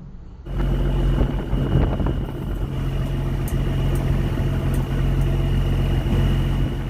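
A boat's engine running steadily at a constant speed, coming in abruptly about half a second in, with a faint steady high whine over the low engine note.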